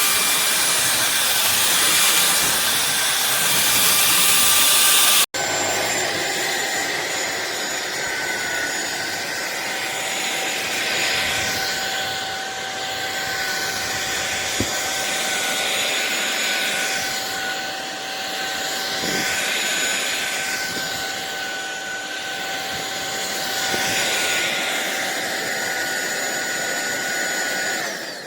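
SunSare X7A cordless stick vacuum cleaner running with a steady high motor whine and hiss. About five seconds in it cuts out for an instant and resumes a little quieter with a changed whine, and it stops at the very end.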